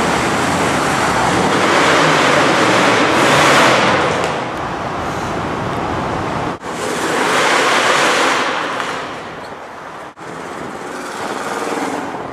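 1971 Ford Mustang Mach 1's 429 Cobra Jet V8 driving through an underpass, the engine and exhaust noise swelling and fading twice as it passes, with two abrupt breaks between shots.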